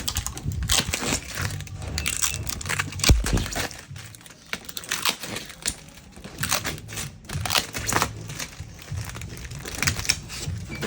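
Plastic packaging crinkling and tearing as a new refrigerator is unwrapped, with irregular crackles throughout and a single thump about three seconds in.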